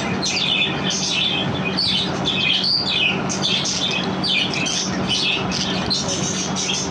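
Budgerigars chattering continuously, a dense run of short squawks, chirps and warbles, over a steady low hum.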